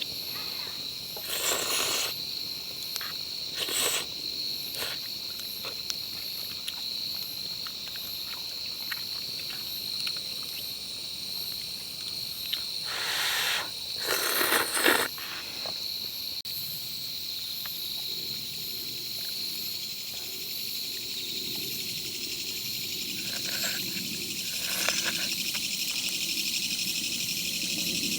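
Steady, high-pitched chorus of crickets and other insects, with fine pulsing in the highest notes. A few short noisy rustles break in during the first half.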